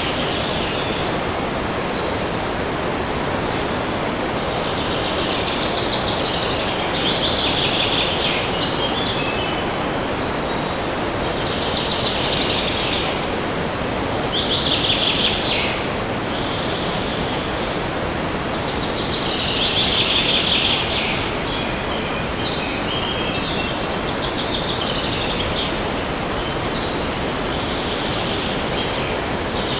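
Steady wind in forest trees, with a songbird singing short high phrases of rapid notes every few seconds.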